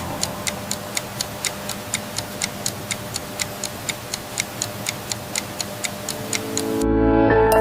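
Clock-like ticking, about four even ticks a second, over a soft held music bed; near the end the full music swells back in.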